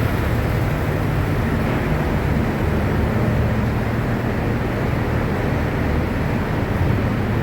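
Steady low rumble with an even noisy hiss above it, like engine or machinery noise.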